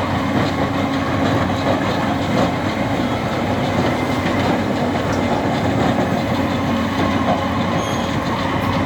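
Tractor shovel loader's engine running steadily while working, a dense, even mechanical rumble.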